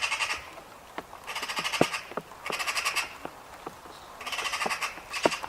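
Magpie chattering: harsh, rapid rattles in short bursts, each well under a second, coming about every second or two, with scattered sharp ticks between them.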